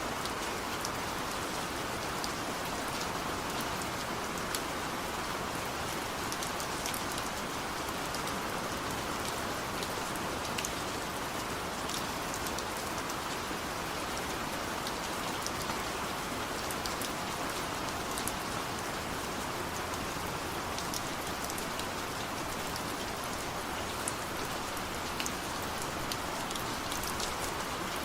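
Heavy rain falling steadily, a dense even hiss with many sharp individual drop impacts ticking through it.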